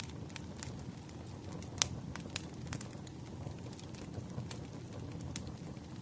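Campfire crackling: irregular sharp pops and snaps over a steady low rumble, with one louder pop a little under two seconds in.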